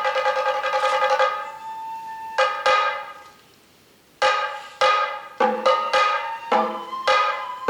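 Sato kagura hayashi music with drums and bamboo flute: a fast drum roll under a held flute tone, a lone flute note, then a pause of about a second. After the pause come separate sharp drum strokes with short pitched flute notes.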